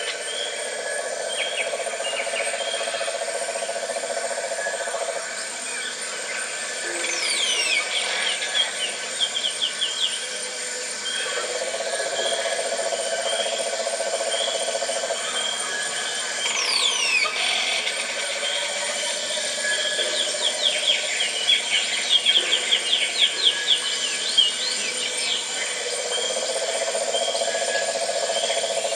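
Tropical forest ambience: birds calling, with a run of short repeated chirps, a few steeply falling whistled notes and rapid trills, over an insect drone that comes and goes in stretches of several seconds.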